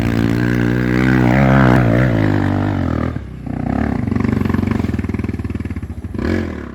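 Dirt bike engine revving hard under load, its pitch rising and wavering, dropping off about three seconds in, then running on steadily with a short rev near the end.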